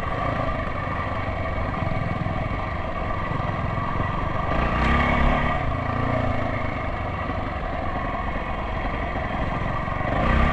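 Enduro motorcycle engine running steadily while being ridden, rising briefly about five seconds in.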